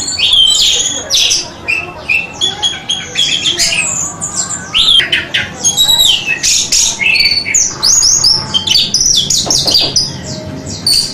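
Orange-headed thrush (anis merah) singing a fast, varied song of sharp chirps and short whistled phrases, almost without a break.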